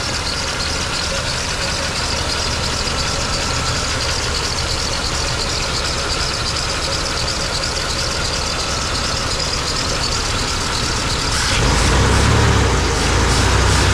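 A 1989 GMC Sierra's engine idling steadily, run with no coolant in it. About eleven and a half seconds in the low rumble gets louder.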